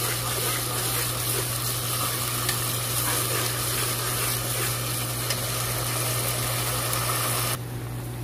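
Spice paste of onion, ginger and garlic sizzling as it fries in oil in a pan, stirred with a spatula, over a steady low hum. The sizzling cuts off shortly before the end.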